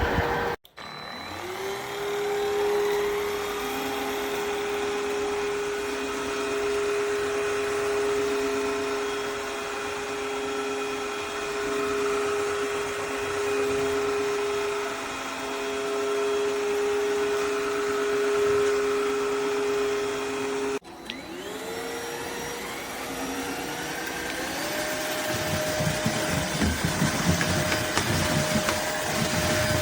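Eureka cordless wet-dry vacuum-mop running with a steady motor whine. The motor spins up from a stop near the start and again after a break about 21 s in. About 24 s in its pitch steps higher, and a rougher rushing noise joins it for the last few seconds.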